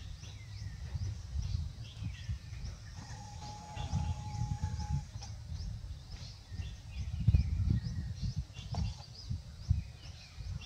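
Many small birds chirping in quick, scattered calls, over a low rumbling background noise. About three seconds in, a single steady tone is held for about two seconds.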